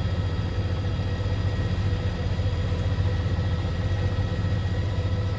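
A news helicopter's engine and rotors droning steadily, heard from inside the cabin, with a steady whine above the low drone.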